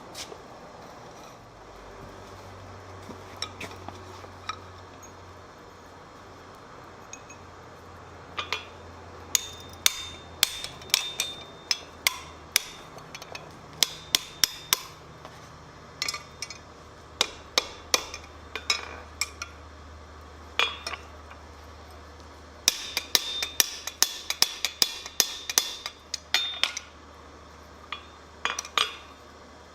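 Blacksmith's hammer striking hot steel on an anvil in irregular runs of sharp, ringing blows, with a fast flurry about three quarters of the way through. A low steady hum runs underneath.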